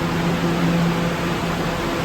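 NYC subway R211 train running: a steady rushing noise with a faint low hum that wavers.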